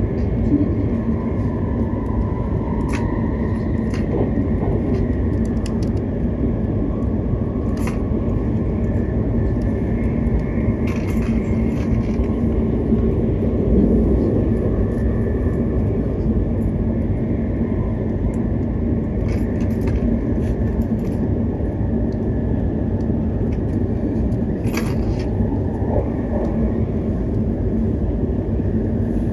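Cabin noise of an E7/W7-series Shinkansen train running at speed, heard from inside the passenger car: a steady low rumble with a faint hum and occasional faint clicks.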